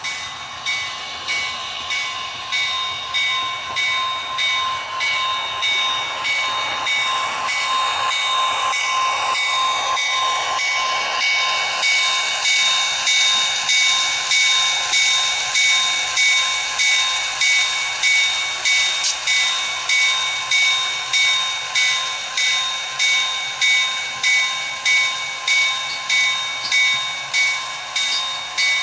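Model train running on the layout: a steady, high whine with a regular pulsing beat a little more than once a second, growing louder about twelve seconds in.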